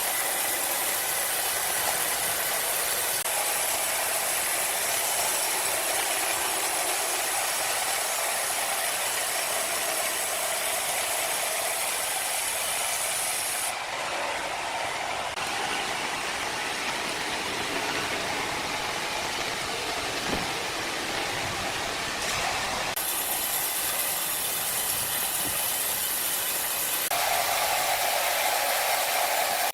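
Sawmill machinery running, a steady noisy hiss with a band of tone in the middle, which changes abruptly in character three times.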